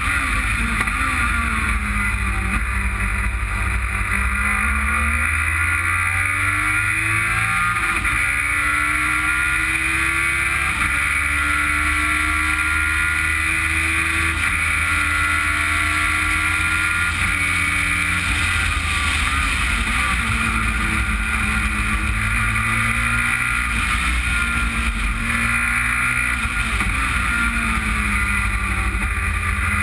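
Onboard sound of a track car's engine under hard driving: its pitch climbs in several steps with sudden drops between them as it shifts up through the gears on the straight, then falls and rises again through the corners. A steady rush of wind over the open car runs underneath.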